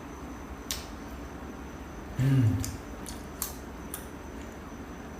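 Close-up mouth sounds of someone eating: several short wet smacks and clicks of lips and tongue while chewing, with a brief hummed "mm" about two seconds in.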